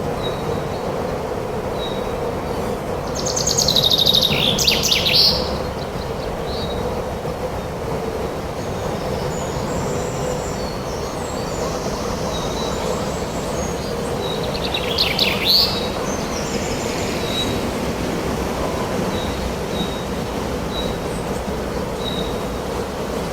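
Forest birds singing and chirping over a steady wash of wind, with two louder bursts of song, one a few seconds in and one about halfway through, and short high chirps repeating between them.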